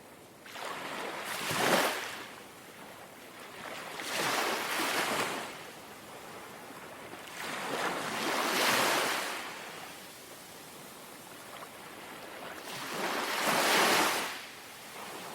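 Small sea waves lapping and washing in gently, four times, each swelling and fading over a second or two, with a soft wash of water between them.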